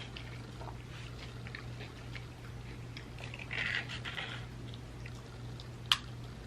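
Close-up chewing of chips: soft mouth clicks and a brief crunchy stretch about halfway through, with one sharp click near the end. A steady low electrical hum runs underneath.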